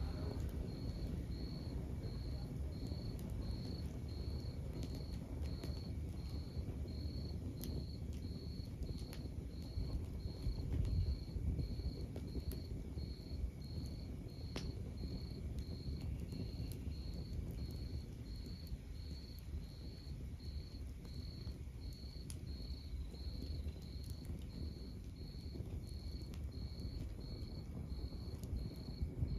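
Wood fire burning in a fireplace: a low steady rumble of the flames with scattered sharp crackles and pops from the logs. A faint high chirp repeats evenly, about three every two seconds.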